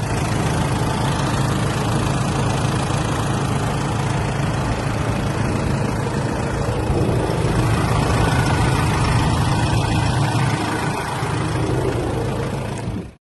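Nissan Navara's 2.3-litre diesel engine idling steadily, with no revving. It cuts off suddenly near the end.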